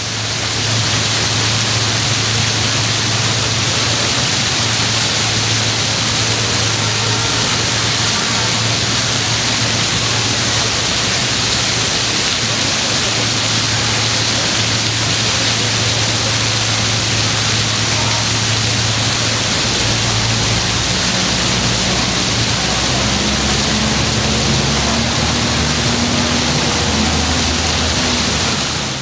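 Fountain water splashing and falling steadily, with a low hum beneath it and a low rumble joining in about two-thirds of the way through.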